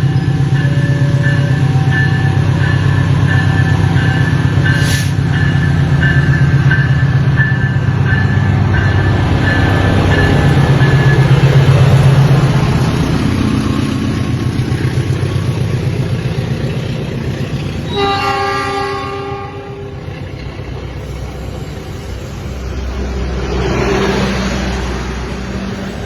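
Indonesian Railways CC 206 diesel-electric locomotive passing with a heavy engine rumble, over the repeating two-tone beeps of a level-crossing alarm that die away. About 18 s in it sounds its horn in one blast of about a second and a half. The passenger coaches then roll past, their wheel noise swelling and fading.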